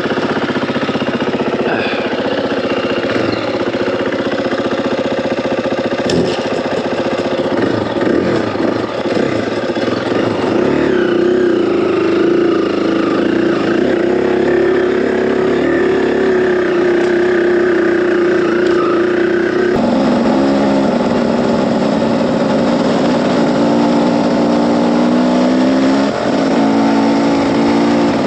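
Dirt bike engine running as the bike rides off. The engine note rises and falls with the throttle, with a couple of abrupt pitch changes at gear shifts in the second half.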